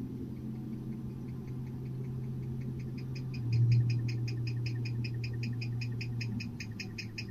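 Barn owl calling a rapid series of short, evenly spaced notes, about six or seven a second, faint at first and growing louder from about three seconds in. A steady low electrical hum runs underneath and swells briefly about three and a half seconds in.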